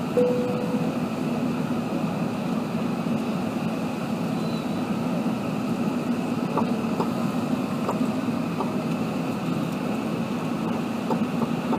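Steady rumble and rush of cabin noise inside an Airbus A380 airliner, with a brief fading tone right at the start.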